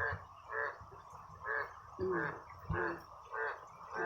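Frogs calling after heavy rain: a short croaking call repeats evenly, a little under twice a second.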